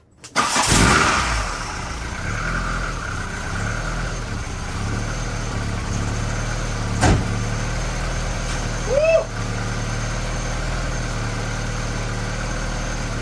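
A Volkswagen Golf Mk2's four-cylinder engine starts almost at once, flares briefly in revs and settles into a steady idle: it is running again now that the faulty distributor Hall sender, the cause of its no-spark condition, has been replaced. A single sharp click comes about seven seconds in, and a brief squeak about two seconds later.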